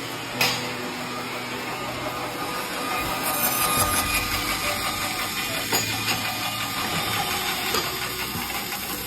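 Woodworking machine running and cutting wood, a steady mechanical noise with a sharp knock about half a second in.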